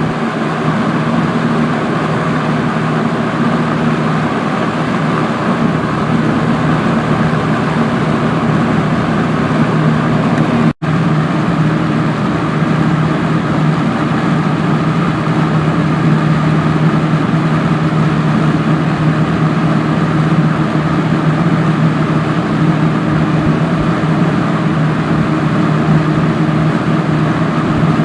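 Kmart K-223 box fan, a Lakewood-built unit from December 1978, running steadily: a constant rush of air over a low motor hum. Its motor has been cleaned and oiled. The sound cuts out for an instant about eleven seconds in, and the hum's pitch is slightly different afterwards.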